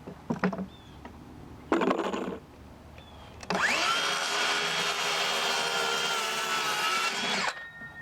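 Electric power saw: a few knocks of boards being handled, then about three and a half seconds in the motor spins up with a rising whine and runs steadily for about four seconds through a cut in a board before cutting off.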